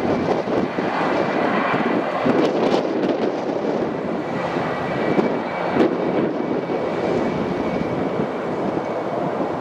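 Jet airliner's engines running, heard through heavy wind noise on the microphone, with a faint steady whine above the rumble.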